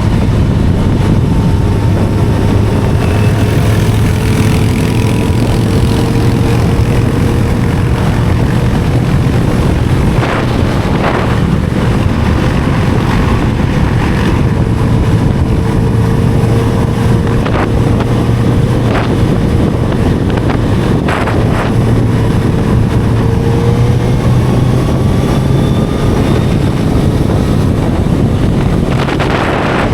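Inline-four sport motorcycle engine running at a steady cruise, its pitch creeping slowly upward, with wind rushing over the microphone. A few short knocks come through midway.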